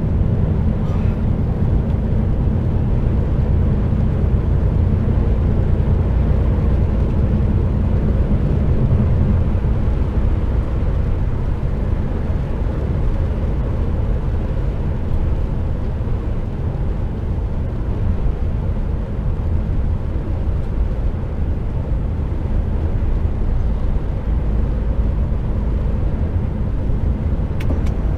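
Steady low rumble of an HGV truck's diesel engine and tyre noise, heard inside the cab while driving on the motorway.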